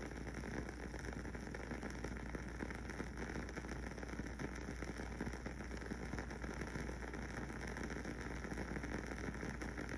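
Wooden-wick aroma candle burning with a steady crackle: many small, soft pops in quick succession, like a fireplace.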